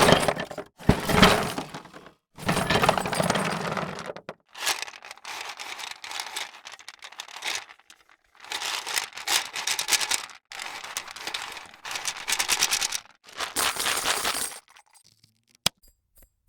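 A run of short foley sound effects played one after another: crackling, breaking noises, each about one to two seconds long with brief gaps between, ending in a single sharp click.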